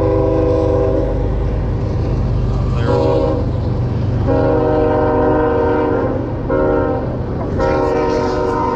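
Train horn sounding a series of blasts, several notes at once: a long one fading about a second in, then a short one, a long one, another short one, and a long one starting near the end. A steady low rumble runs underneath.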